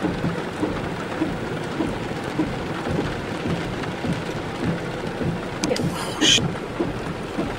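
Heavy downpour of rain, a steady hiss, with a short louder burst of hiss about six seconds in.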